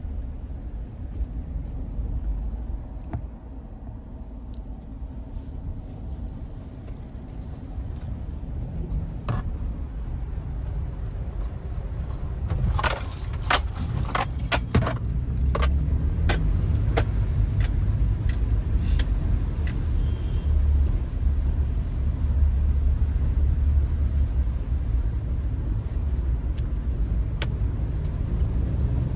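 Low, steady road and engine rumble of a car, heard from inside as it drives, growing louder about halfway through. A quick cluster of sharp clicks and rattles comes partway through, with a few more later.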